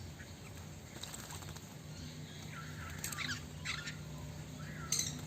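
Hwamei (Chinese hwamei songbird) giving a few short squeaky call notes, three brief sweeping chirps spread through the second half, over a low steady hum.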